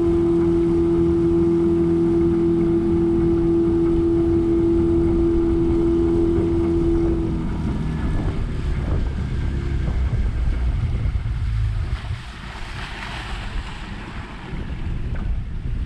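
Boat motor running steadily with a constant whine and a low rumble while the boat is under way. About halfway through the whine cuts out and the running dies away, leaving wind on the microphone and water noise.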